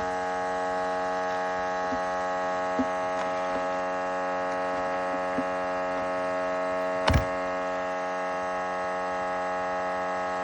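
Vacuum cleaner motor serving as a furnace's combustion-air blower, enclosed in a noise-reducing case, running with a steady humming whine made of many even tones. A sharp knock sounds about seven seconds in.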